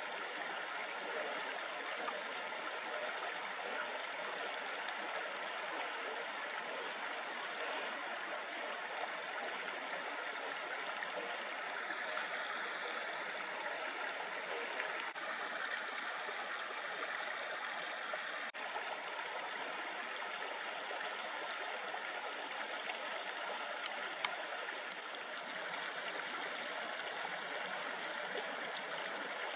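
A shallow river babbling steadily over stones, with a few brief high chirps from small birds near the middle and again near the end.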